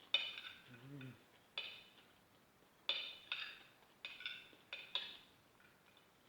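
Metal spoon clinking and scraping against a plate while eating, about eight sharp clinks that ring briefly, unevenly spaced.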